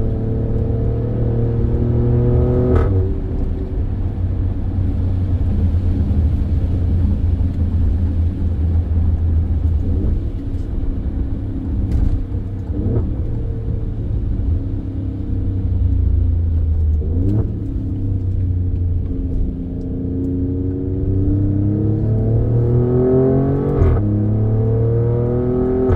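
Alfa Romeo Stelvio Quadrifoglio's twin-turbo V6 pulling under acceleration. Its pitch rises, then drops back at gear changes about three, twelve, seventeen and twenty-four seconds in, with a steady low rumble underneath.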